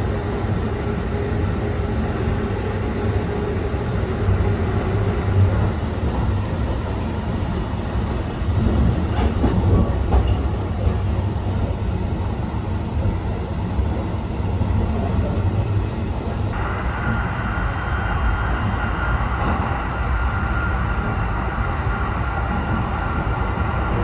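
Limited Express Thunderbird electric train running at speed, heard from inside the carriage: a steady rumble of wheels on rail. The sound shifts abruptly in tone twice, about ten and sixteen seconds in.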